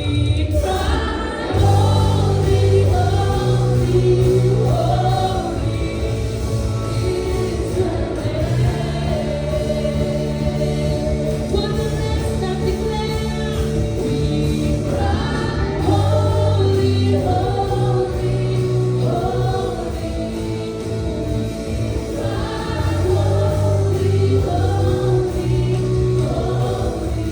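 Church worship team singing a Christian worship song in several voices over steady band accompaniment.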